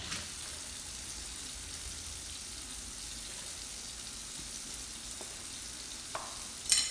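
A steady hiss of water running from a kitchen tap, with a short sharp crackle near the end.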